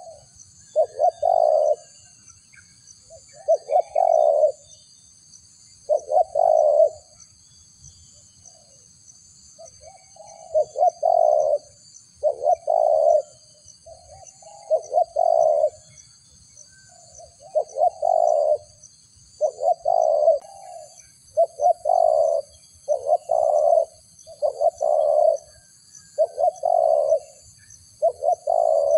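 A dove-like bird repeating a short, low cooing call about every second or two, with a pause of a few seconds about a third of the way in. Steady high thin tones run faintly underneath.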